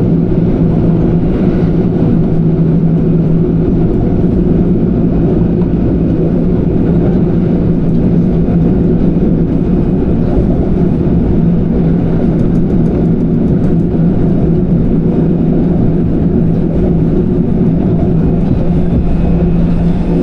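Kintetsu Kyoto Line electric train running between stations, heard from inside the car: a steady rumble of wheels on track with a constant low motor hum.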